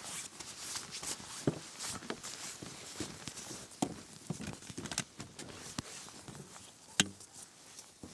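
Irregular rustling and short knocks, like footsteps and gear being handled, with one sharper knock about seven seconds in.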